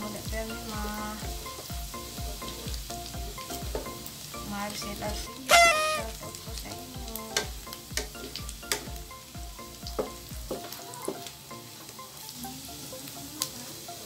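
Pork sizzling as it fries in a nonstick wok, stirred with a wooden spatula that clicks and scrapes against the pan. About five and a half seconds in there is one loud, short squeal that falls in pitch.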